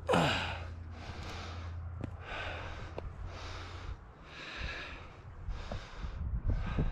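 A climber breathing hard and rhythmically close to the microphone, about one breath sound a second, with a sharp intake at the start and a couple of faint taps.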